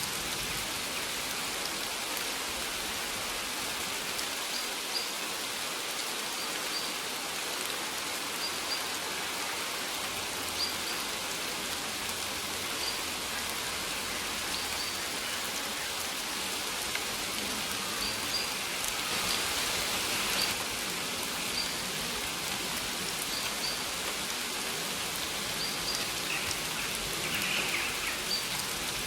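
Steady rainfall, a constant hiss of drops on a surface, with faint short high bird chirps every second or two.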